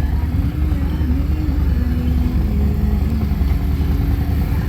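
Motorcycle engines idling, a steady low rumble whose pitch drifts up and down a little.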